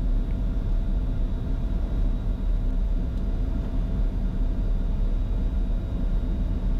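Steady cockpit noise of a Bombardier Challenger 605 business jet on short final: an even low rumble of airflow and engines with faint steady high tones.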